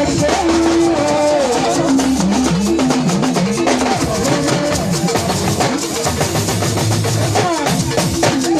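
Live gospel band music: a drum kit keeping a steady beat under a wandering melodic line, without sung words.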